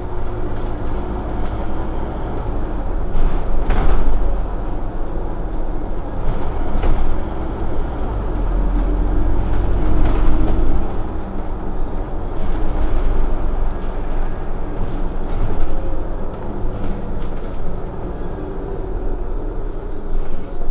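Scania OmniCity single-deck bus heard from inside the cabin while under way: its diesel engine and drivetrain give a steady low rumble, with occasional rattles and knocks from the body.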